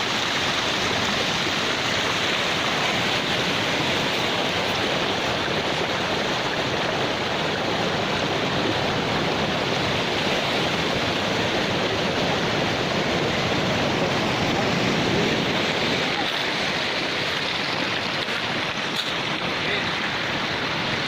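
Steady rushing water, an even wash of noise that holds at the same level throughout.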